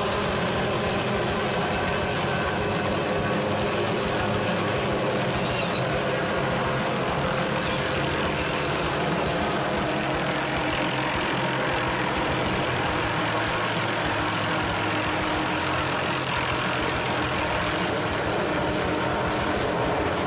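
An engine running with a steady, unchanging drone, made of several held tones.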